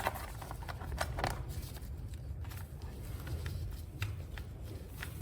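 Scattered light clicks and taps of plastic cable clips and a cover being handled and pushed into place on a motorcycle, a few isolated ticks about a second apart over a low background hum.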